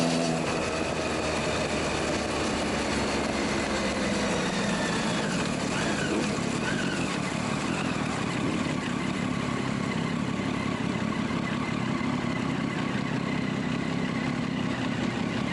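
Sport motorcycle engines running as the bikes slow down and pull up, the engine note falling over the first few seconds, under a dense, steady rush of noise.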